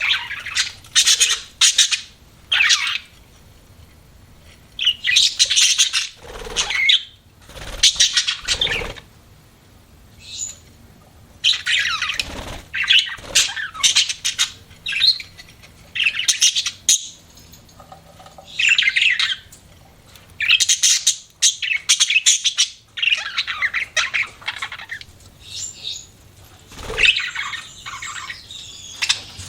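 Budgerigars chirping and chattering in repeated bursts of one to two seconds, with short pauses between.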